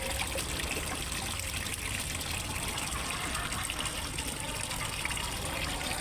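Water of a fish pond's small waterfall running and splashing steadily, a continuous trickling gush.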